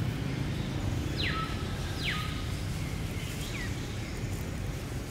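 Steady low outdoor rumble with birds chirping: two quick high whistles that fall sharply in pitch, about a second and two seconds in, and a fainter one later.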